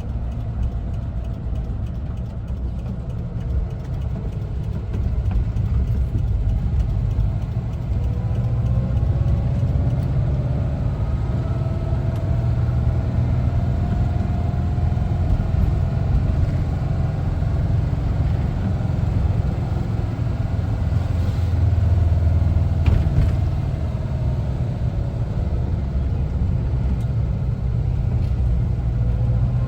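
1974 Volkswagen Westfalia camper's air-cooled flat-four engine running under way, with a steady low rumble from inside the van. A fainter whine rises in pitch over the first half and falls again later as the van speeds up and slows.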